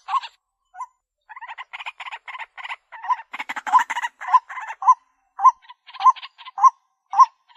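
White-breasted waterhen calling: a dense run of harsh, rapidly repeated notes, which near the end settles into separate calls at about two a second.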